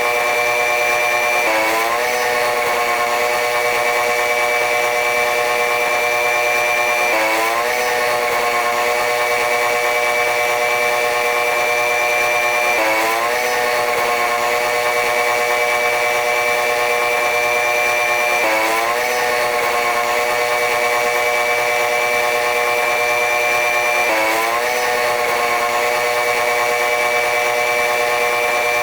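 Steady running noise of a diesel-electric locomotive-hauled train: a loud droning hum over a hiss, its tone briefly dipping and climbing back roughly every five to six seconds.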